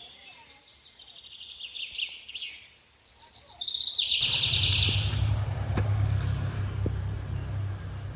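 A songbird giving rapid, pulsed trills. About four seconds in, a loud low rumble rises and covers the rest.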